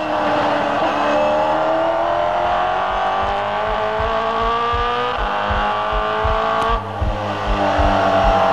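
Racing car engine accelerating, its pitch climbing steadily and dropping at a gear change about seven seconds in, then climbing again, over a regular low thump.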